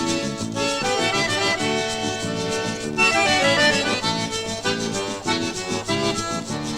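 Instrumental break in a música caipira song: an accordion plays the melody in held notes over the band's accompaniment.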